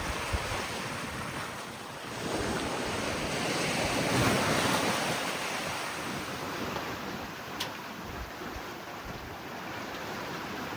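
Sea water rushing and breaking along the hull of a sailing yacht under way, with wind buffeting the microphone; the rush swells to its loudest about four seconds in, then eases.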